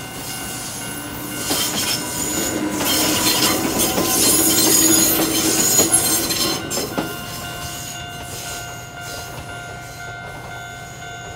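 Konan Railway 7000-series electric train passing close by, its wheels clattering and squealing on the rails, loudest a few seconds in and easing off after about seven seconds. A level-crossing alarm rings steadily the whole time and keeps ringing once the train has passed.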